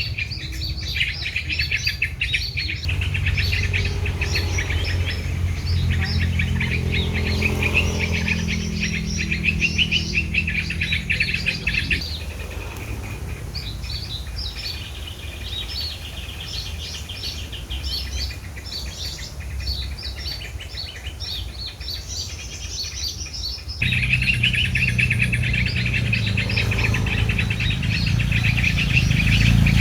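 Many small birds chirping rapidly and continuously, in several stretches that change abruptly about 3, 12 and 24 seconds in, with a low rumble underneath in some of them.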